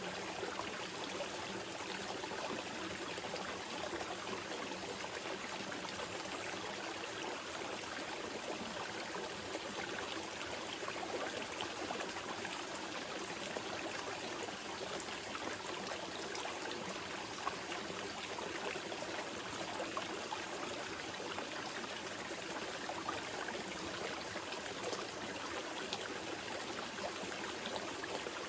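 Small mountain river flowing steadily over rocks, an even rush of water with fine trickling and splashing detail.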